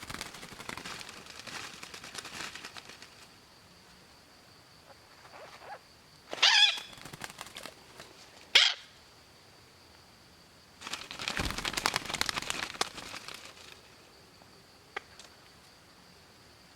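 Parrots calling and scratching: scratchy rustling, then two loud squawks a couple of seconds apart, the second short and sharp, followed by more rustling and a single tick near the end.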